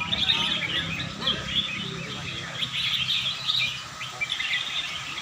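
Many caged red-whiskered bulbuls singing at once, a dense tangle of short overlapping chirps and warbled phrases.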